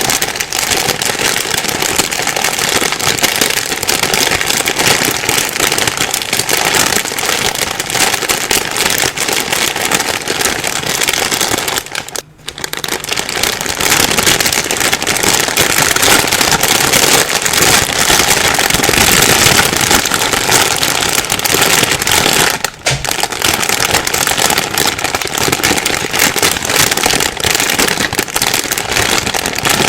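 Plastic bag being crumpled and rustled continuously: a dense, loud crackling. It drops out briefly about twelve seconds in and again near twenty-three seconds.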